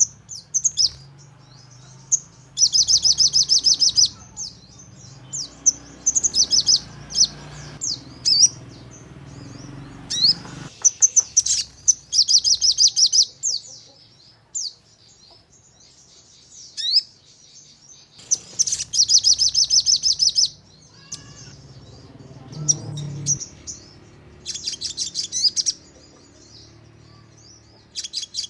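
Sogon songbird singing in its fast 'nembak' style: repeated bursts of rapid, closely spaced, sharp high notes, each burst a second or two long, with single sharp chirps in between.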